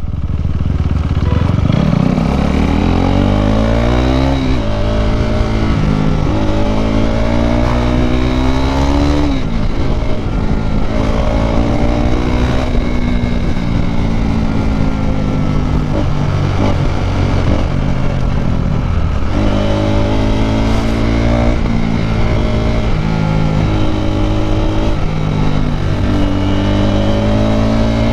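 KTM RC 390's single-cylinder engine through an Akrapovič exhaust, heard from the rider's helmet, accelerating hard through the gears. The pitch climbs and drops back with each upshift, holds fairly steady for a while in the middle, then climbs through several more quick shifts near the end.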